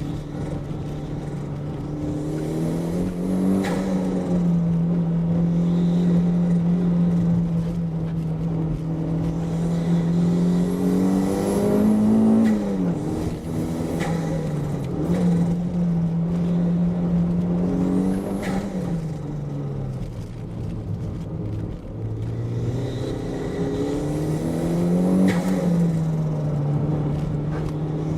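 Toyota MR2's engine driven hard, its note holding steady for several seconds at a time, then climbing and dropping sharply as the driver shifts or lifts for corners, several times over.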